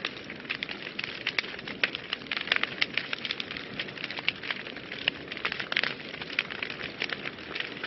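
Wood fire burning in a fireplace, with dense irregular crackles and pops over a steady hiss.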